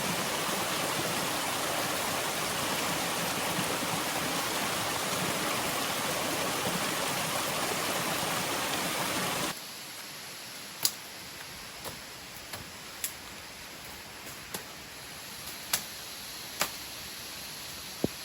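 A steady, loud rush of water that cuts off suddenly about halfway through. It leaves a quieter wash of background water noise with a few scattered sharp ticks.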